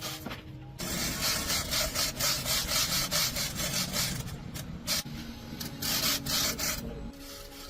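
Rapid back-and-forth scraping strokes of a hand tool rubbing on a part, coming thick and fast and then spaced out, stopping about seven seconds in. A low steady hum runs underneath.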